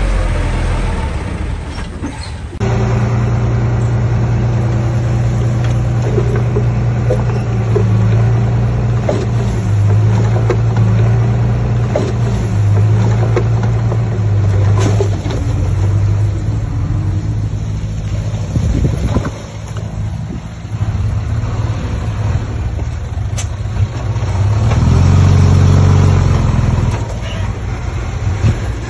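Diesel engine of heavy earthmoving machinery running under load, its pitch rising and falling as it is revved up and eased off several times. The sound changes abruptly about two and a half seconds in.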